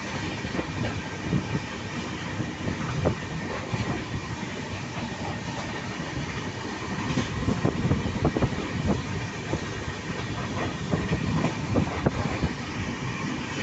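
Passenger train running at speed: a steady rumble with the wheels clacking over rail joints, and busier clatter around the middle and again near the end.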